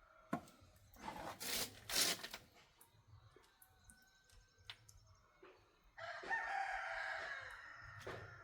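A rooster crowing: one long call starting about six seconds in and trailing off near the end. Before it there are a few short scraping or knocking noises and clicks.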